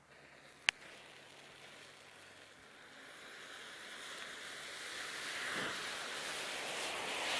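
A sharp click about a second in, then a hiss that builds steadily louder: a large pile of matches catching fire, the match heads flaring as the flame spreads through it.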